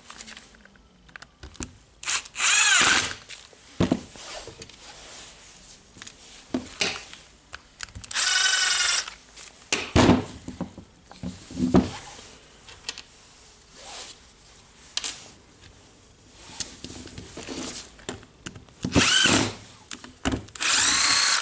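A small electric screwdriver motor runs in four short bursts of about a second each, driving housing screws into a rotary hammer's plastic body, with clicks and knocks of handling and parts between the runs.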